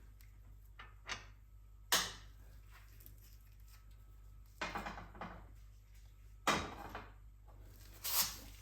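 Several sharp, separate knocks and clunks of hand tools and suspension hardware being handled while working on a car's front strut, the loudest about two seconds in and about six and a half seconds in.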